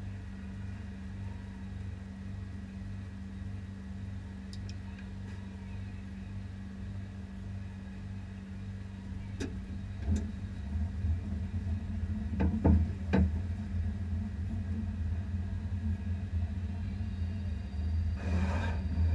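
Drag car's engine idling, heard from inside the cabin as a steady low rumble that grows louder and rougher about halfway through. A few sharp knocks come in the middle, and a short burst of noise near the end.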